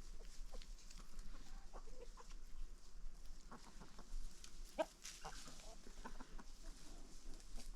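Chickens clucking: short, scattered clucks from several birds, one louder call about five seconds in.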